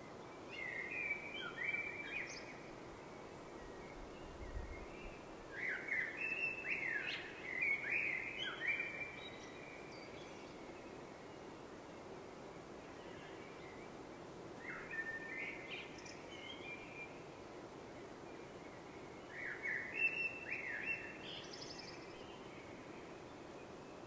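A songbird singing four short phrases of quick, sweeping whistled notes, several seconds apart, over steady low background noise.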